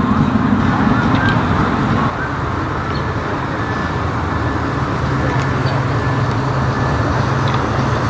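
A car engine running steadily close by, its low note dropping slightly about two seconds in.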